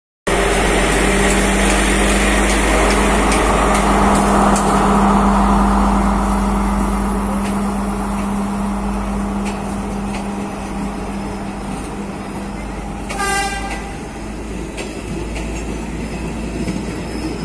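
A Sri Lanka Railways diesel multiple unit, an S12 power car leading S9 carriages, rolling slowly past, with a steady diesel engine drone that eases off as the power car draws away and the carriages roll by. A brief high toot sounds about 13 seconds in.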